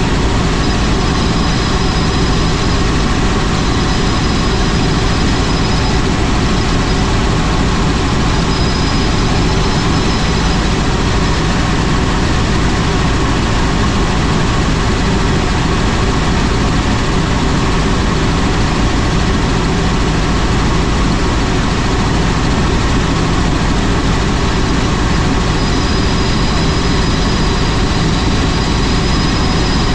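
Helicopter in flight: a steady, loud drone of turbine engine and rotor, with a faint high whine that comes and goes.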